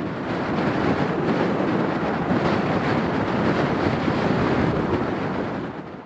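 Strong gusty wind buffeting the microphone: a loud, rough, fluctuating rush.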